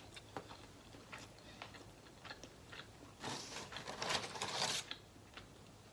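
A person chewing a bite of a Chipotle burrito bowl close to the microphone, with small wet mouth clicks. The chewing gets louder for a second or two about three seconds in.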